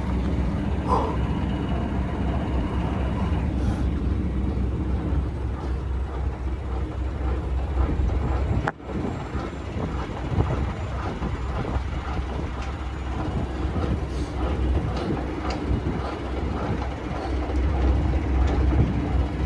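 Semi truck's diesel engine idling with a steady low rumble, with scattered clicks and knocks over it. The sound briefly cuts out about nine seconds in.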